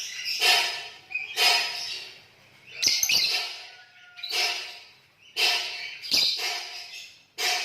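Lovebird singing in repeated bursts of rapid, shrill chattering chirps, each about half a second to a second long with short gaps between. A sharp click cuts in about three seconds in and again about six seconds in.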